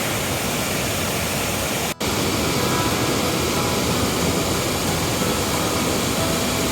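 Waterfall in full spate after heavy rain: a steady rushing of falling water, broken by a very short gap about two seconds in.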